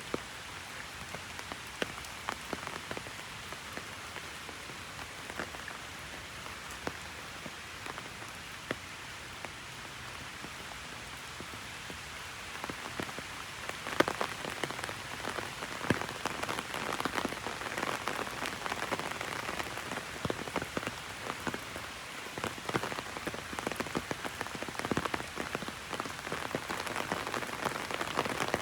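Heavy rain striking an open umbrella, many individual drops ticking sharply on the canopy over a steady hiss. The rain grows heavier and louder about halfway through.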